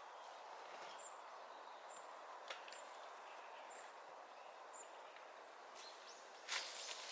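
Quiet outdoor ambience: a bird's short high chirp repeating about once a second over a faint steady hiss. Crunching and rustling starts about six and a half seconds in.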